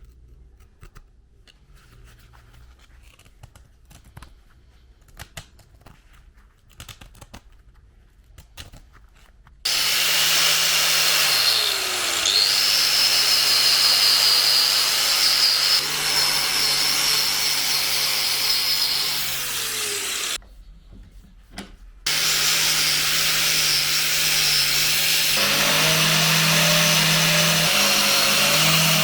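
Scattered light clicks and taps, then an electric power tool starts abruptly and runs with a steady high whine, its pitch dipping briefly under load. Its pitch slides down and it cuts out, then after a short pause it runs again.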